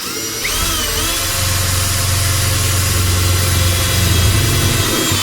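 Power drill driving a screw into the metal door: the motor spins up in a rising whine over the first second, runs steadily, then stops suddenly.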